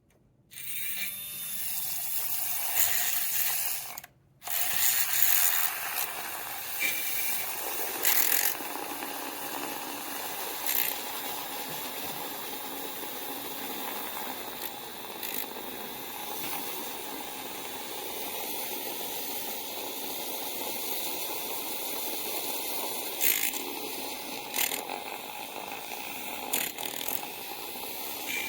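Handheld battery milk frother whisking milk in a cup: a steady small-motor buzz that stops briefly about four seconds in and starts again, with scattered sharp clicks and taps.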